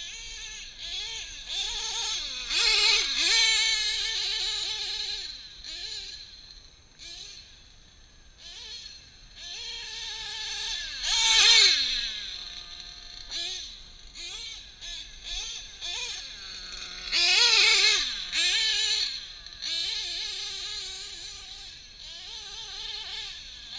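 A 1/7-scale nitro truggy's drag-modified Novarossi .28 two-stroke glow engine revving up and down with the throttle as the truck runs a hill, a high-pitched whine that rises and falls in pitch. The loudest full-throttle runs come about three, eleven and seventeen seconds in.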